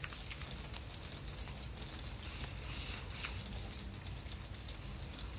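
Denture wearer quietly chewing a cold chicken wing: faint, scattered clicks and crackles from the mouth.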